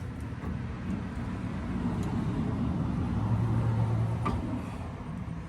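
A low, steady motor-vehicle hum that grows louder about three seconds in and eases off near the end, with one sharp click a little after four seconds.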